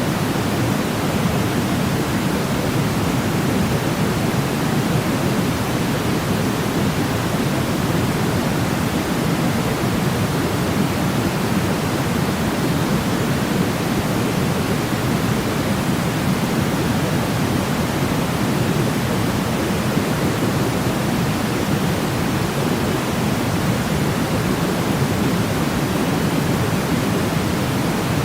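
Steady sleep white noise, a smooth continuous hiss weighted toward the low end so it sounds deep and soft rather than bright, with no change in level or character.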